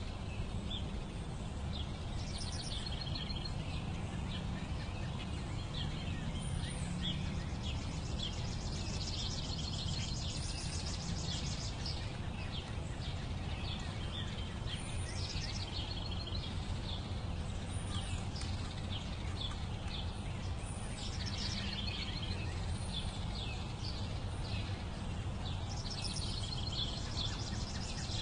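Outdoor ambience of birds chirping: repeated short high chirps, many falling in pitch, coming in clusters over a steady low rumble.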